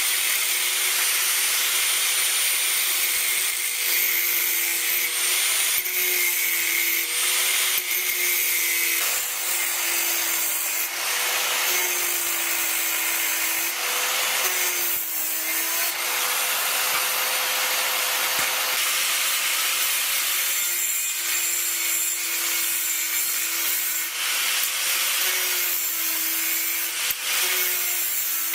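Power tool grinding steadily, its motor whine dipping in pitch for a moment every few seconds as it is pressed into the work.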